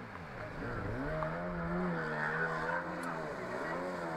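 Jet ski engine running and revving: the pitch drops, climbs about a second in and holds, then falls and rises again near the end as the throttle is worked.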